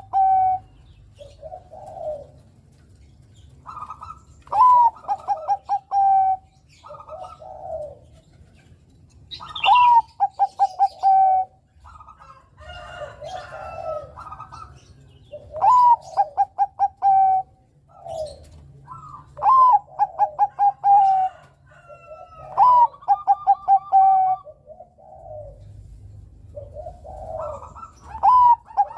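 Male zebra dove (Bangkok-type perkutut) singing: its cooing phrase repeated about every three to six seconds, each a rising-and-falling opening note followed by a quick run of rolling notes, with softer lower coos between phrases.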